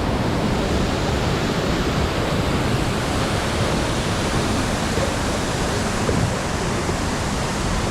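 Steady, even rush of falling water from the Tamul waterfall.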